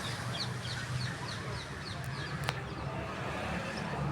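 Motor boat engine running with a steady low hum while birds call in a quick run of short, high chirps over the first two seconds. A single sharp click comes about two and a half seconds in.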